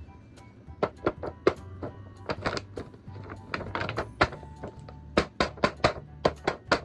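Short sharp plastic clicks and knocks, as of an action figure and its packaging being handled, coming in uneven clusters that grow quicker and louder near the end, over background music with a steady low bass.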